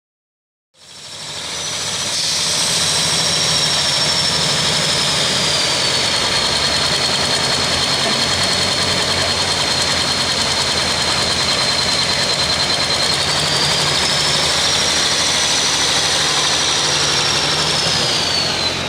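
Super farm pulling tractor's diesel engine running hard at sustained full power, with a high whine over it that dips in pitch and then rises again. The sound cuts in suddenly about a second in.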